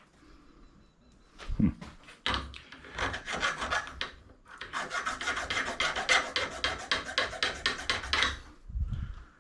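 Rapid rasping strokes of a piece of scrap metal being scraped, about eight strokes a second, in two runs with a short break between them, with a dull thump before and after.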